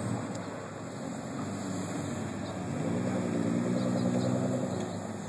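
Car engines running at idle, a low steady engine note that swells louder about three seconds in and eases off near the end.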